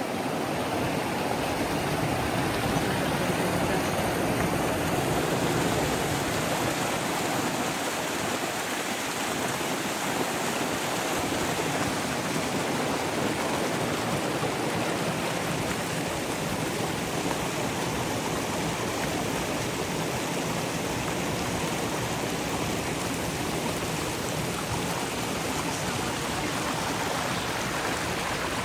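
Steady rushing noise like moving water, a little louder in the first few seconds and then even.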